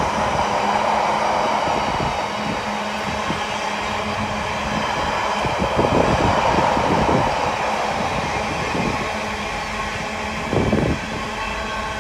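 Container freight train's wagons rolling past, with a steady rumble of steel wheels on rail. A run of clattering wheel beats comes about six seconds in, and one short louder clatter comes near the end.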